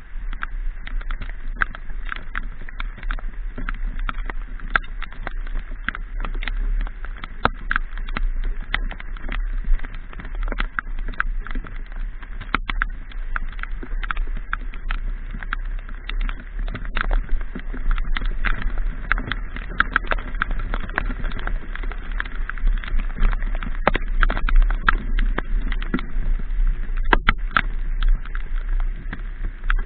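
Raindrops tapping on the microphone in dense, irregular clicks during a motorcycle ride in the rain, over a steady low rumble of wind and the motorbike.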